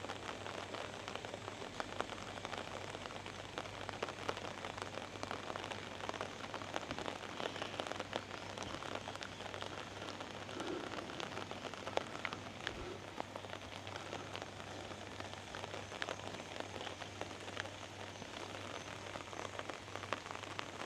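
Monsoon rain falling steadily, with many small drops tapping close by, over a faint steady low hum.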